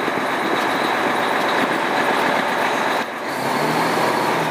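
Fire engine's engine running at idle in neutral, heard from inside the cab: a steady, dense running sound. A low steady hum joins about three seconds in.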